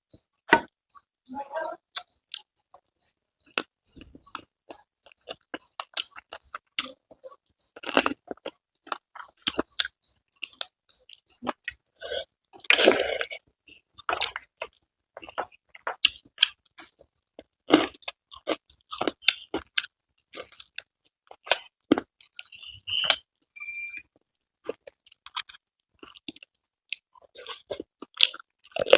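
Close-up chewing and crunching of crisp fried food, a steady run of irregular sharp crunches and mouth clicks, with a louder burst of crunching about halfway through.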